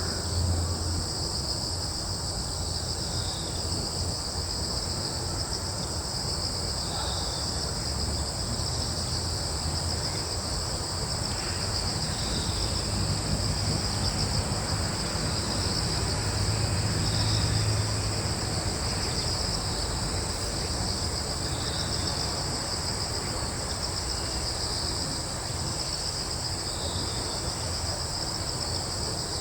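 Crickets trilling steadily in an unbroken chorus, with a softer chirp recurring every couple of seconds. Under it runs a low rumble that swells about halfway through.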